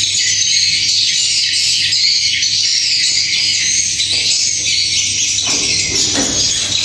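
Dense, continuous chattering of swiftlet calls filling a swiftlet house, high-pitched and loud. A few brief lower rustling or scraping noises come near the end.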